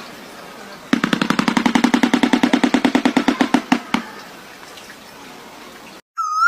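Shoebill clattering its bill: a fast, even run of hollow knocks, about ten a second, that starts about a second in and stops after about three seconds, over a steady hiss.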